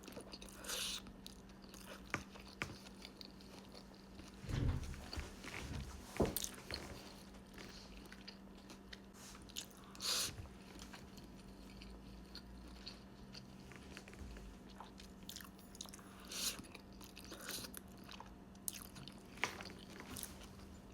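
Close-miked chewing and biting of Chinese takeout food, with irregular crunchy bites and small wet mouth clicks, over a faint steady hum.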